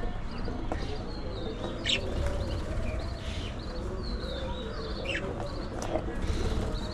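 Budgerigars chirping and chattering: a steady run of short high chirps with a lower warbling chatter underneath, and a few sharper, louder calls about two seconds in and again near the end.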